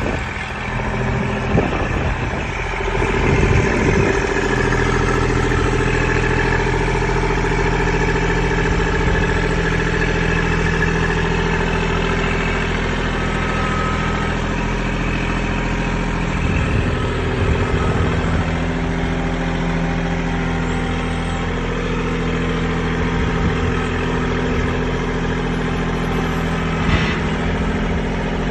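Kubota L2501 tractor's three-cylinder diesel engine running steadily under backhoe work. Its pitch steps up a few seconds in and shifts again about halfway through, with a few short knocks near the start and one near the end.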